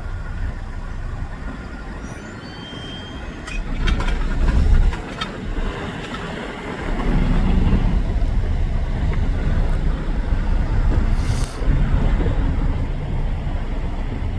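Steady low rumble of vehicles and a waiting train, with the level rising and falling, a few sharp clicks about four to five seconds in and a brief hiss about eleven seconds in.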